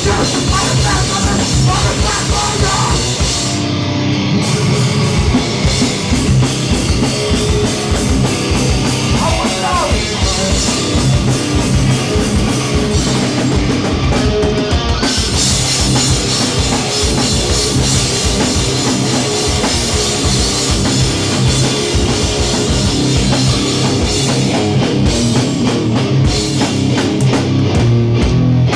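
Hardcore punk band playing live through a PA: loud distorted guitars, bass and a pounding drum kit, with no vocals.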